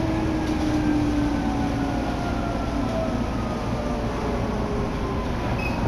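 Electric commuter train running with a steady rumble, its motor whine of several tones gliding slowly down in pitch: the train is slowing.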